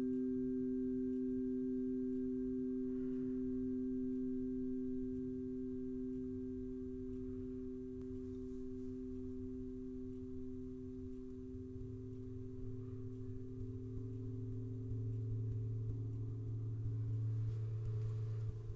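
Sound-healing instruments holding two steady, pure, ringing tones, one above the other. A deeper tone swells in about two-thirds of the way through, and a few more tones join near the end.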